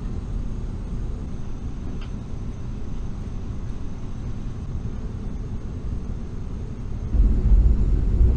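Low, steady rumble of a KTX-EUM high-speed electric train heard from inside the passenger cabin as it pulls out of a station. The rumble grows clearly louder about seven seconds in.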